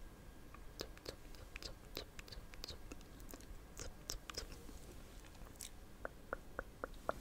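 Faint ASMR mouth sounds: scattered soft wet clicks and smacks, then a quicker run of about six clicks near the end.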